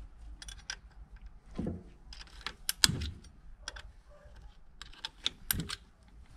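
Irregular metallic clicks and clinks of hand tools and engine parts being handled during a motorcycle engine teardown, with a few heavier knocks that ring briefly.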